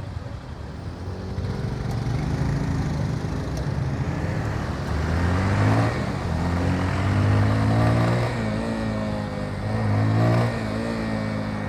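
Motorcycle engine pulling away under acceleration, its pitch climbing and then falling back several times, with rushing road and wind noise.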